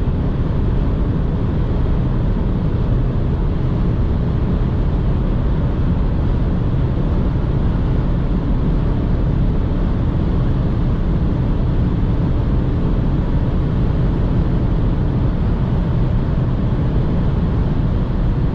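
In-cabin sound of a BMW 118i's 2.0-litre four-cylinder petrol engine pulling steadily at high revs, about 4,000 rpm, at around 200 km/h, mixed with wind and tyre noise. The sound holds steady without gear changes or revving.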